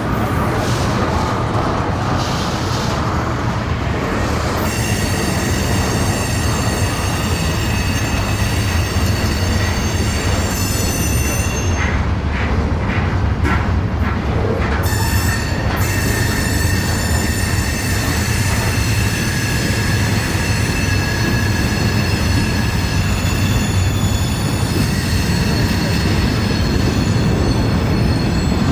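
A train running close by on the rails with a heavy, steady rumble. From about five seconds in, a high-pitched whine of several steady tones rides over it, breaks off for a few seconds around the middle, then returns.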